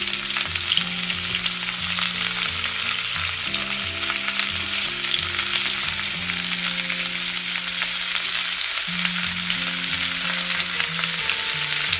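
Pakora batter balls deep-frying in hot oil, a steady, dense sizzle.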